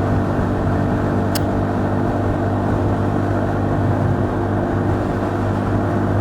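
KTM 390 Duke's single-cylinder engine running at steady revs while cruising, its note even and unchanging, with a brief faint click about a second and a half in.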